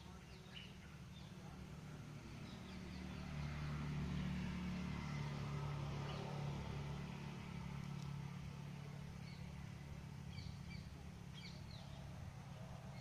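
A passing vehicle's low hum swells to its loudest about four seconds in and then slowly fades, while small birds chirp intermittently.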